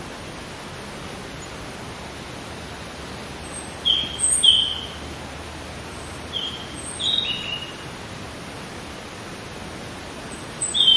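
Birds chirping: short, falling chirps in small groups, over a steady outdoor hiss.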